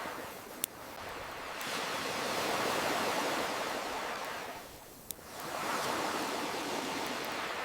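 Ocean waves washing in and drawing back, one swell rising and falling away, then the next building. Two sharp pops from a crackling campfire, about half a second in and again about five seconds in.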